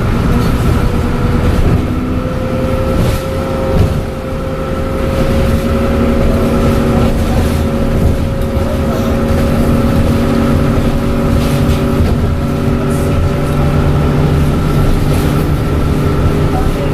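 Dennis Trident double-decker bus's diesel engine running under way, with a steady turbo whistle over the engine note; one tone climbs slowly in pitch for most of the stretch as the bus pulls.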